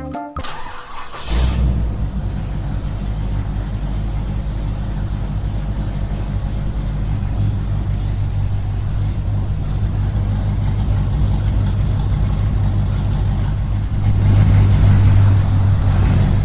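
Small engine starting and then running steadily, growing louder near the end. A short hiss comes just before it catches.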